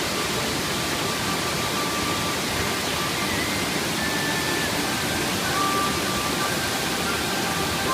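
Steady rush of the Silver Waterfall, the water's noise even and unbroken. Faint melody of long held notes underneath.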